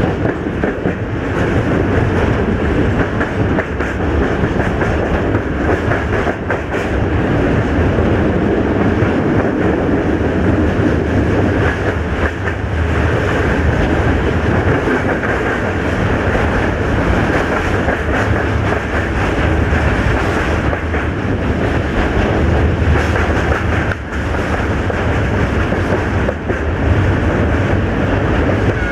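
Freight train on the move behind an LDH1250 diesel-hydraulic locomotive: wheels clacking over jointed rail under a steady low engine drone.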